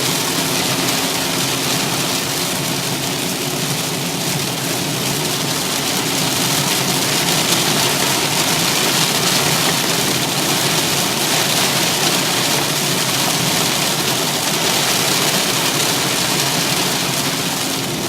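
Heavy rain hissing on a car and its tyres on the wet road, heard from inside the cabin, over a steady engine hum. The automatic transmission is left in second gear instead of drive.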